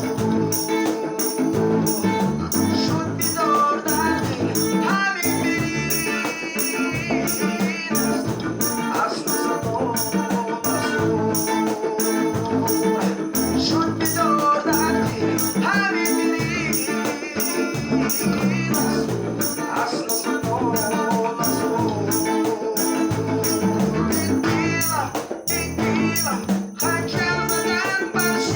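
Ensemble music with a melody over a shaker keeping a steady beat.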